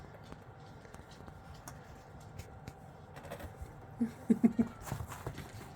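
Very young English Springer Spaniel puppies playing: faint scuffling, then a few short squeaks and grunts about four seconds in.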